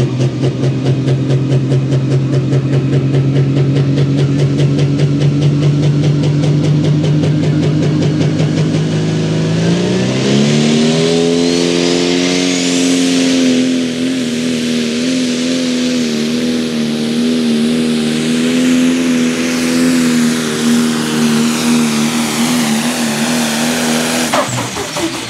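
Pro stock pulling tractor's turbocharged diesel engine on an International tractor, running steadily with a pulsing note. About ten seconds in it revs up sharply to full throttle, with a rising whistle, and holds there for about fourteen seconds under the pull's load. The engine drops off just before the end.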